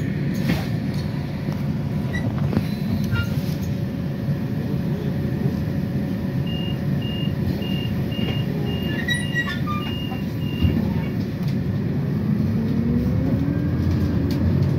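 City bus running, a steady low rumble. A run of short, evenly spaced high beeps lasts a few seconds in the middle, and a slowly rising tone comes in near the end.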